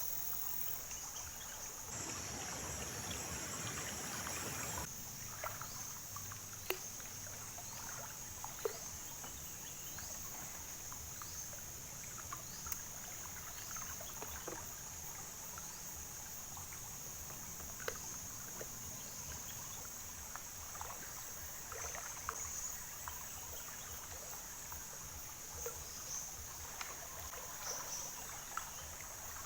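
River-bank ambience: a steady high-pitched insect drone over trickling water, with a brief rush of water or movement about two seconds in and scattered small splashes and ticks.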